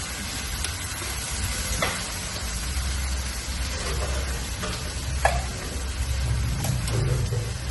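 Chicken chili frying and sizzling in a hot wok over a gas burner, with a metal ladle clinking and scraping against the wok several times as it is stirred.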